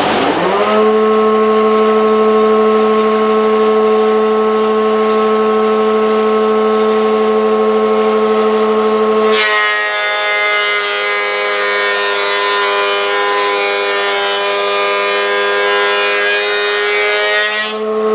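Electric woodworking machine spinning up to speed with a rising whine, running free, then cutting a board for about eight seconds, its whine thicker and harsher under load, before running free again near the end.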